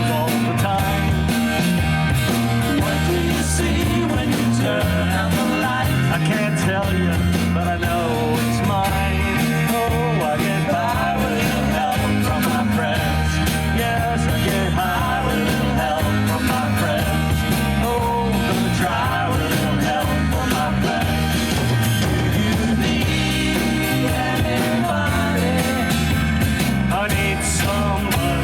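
A rock band playing a song with guitar, bass and singing.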